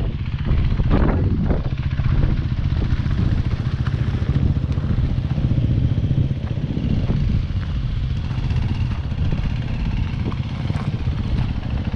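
Enduro dirt bike engine running steadily at low revs, with a few brief clattering sounds about a second in.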